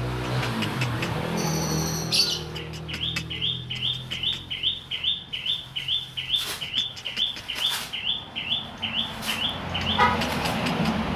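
Grey-cheeked bulbul (cucak jenggot) calling a long, even run of short rising chirps, two or three a second, from about two seconds in until shortly before the end. The bird is young and not yet in full song. A low hum is heard in the first two seconds.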